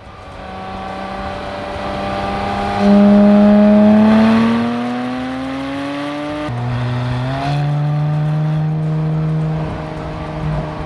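Porsche 718 Spyder RS's 4.0-litre naturally aspirated flat-six engine under acceleration, its note rising steadily for a few seconds from about three seconds in. About six seconds in it changes abruptly to a lower, steady note, which steps up a second later.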